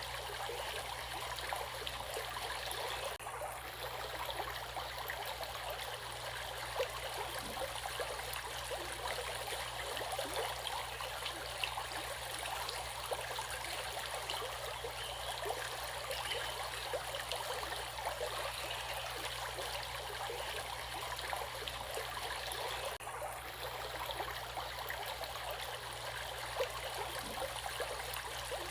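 Stream water running steadily, a continuous rushing and babbling. The hiss dips briefly twice.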